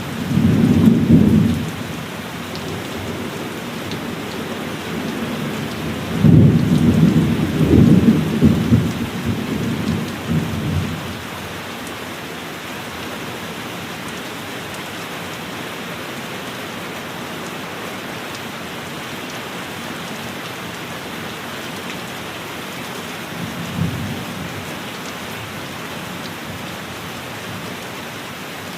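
Heavy rain falling steadily, with rolls of thunder: a rumble right at the start, a longer rolling peal from about six to eleven seconds in, and a brief faint rumble near the end.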